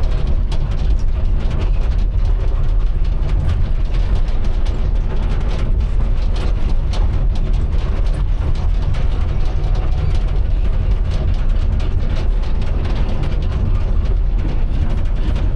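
Excavator's diesel engine running steadily, with many small metallic clicks and clatter throughout.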